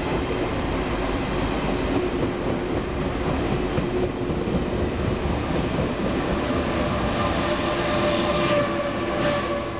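Tze-Chiang Express train pulling out and running past close by on an underground platform, its carriages making a steady loud rolling noise with a few faint steady tones in it.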